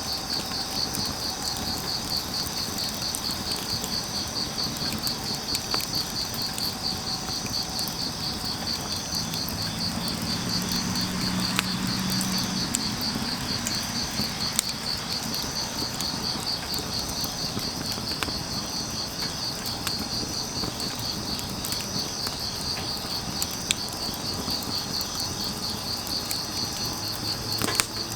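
Grass insects chirping in a steady, rapidly pulsing high chorus, over a wood fire crackling with occasional sharp pops and a soft patter of rain.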